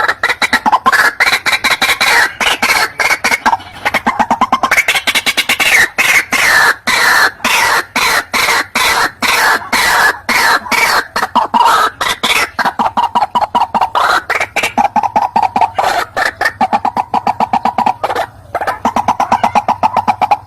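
White-breasted waterhen (ruak-ruak) recorded lure call: a loud, fast run of repeated harsh calling notes, several a second, without a break.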